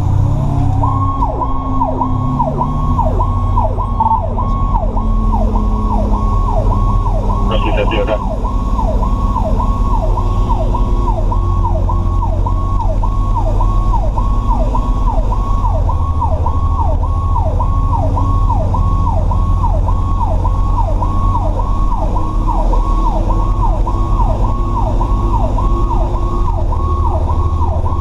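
Fire truck's electronic siren heard from inside the cab, sweeping up and down rapidly about twice a second. Underneath runs the low, steady drone of the truck's engine, and about eight seconds in there is one brief higher-pitched sound.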